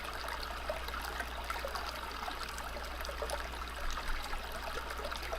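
Running water of a stream, trickling and babbling steadily.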